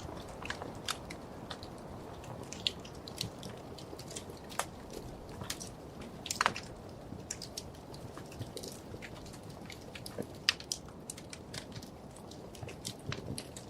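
Wood fire crackling in a fireplace: irregular sharp pops and snaps over a steady low rush of flame, with a few louder pops about six and ten seconds in.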